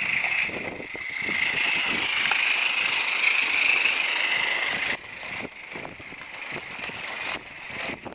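Small 16mm-scale live-steam garden locomotive hissing steadily, cutting off suddenly about five seconds in. It is followed by a quieter string of light clicks.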